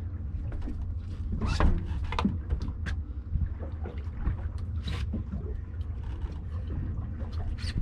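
Steady low rumble aboard a small fishing boat at sea, with scattered short knocks and clicks from handling on deck.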